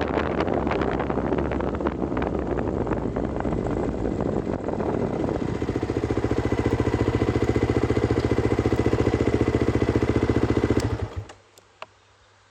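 A vehicle engine running under way with rough noise, settling to an even idle about five and a half seconds in, then switched off about eleven seconds in, leaving near silence with a few faint clicks.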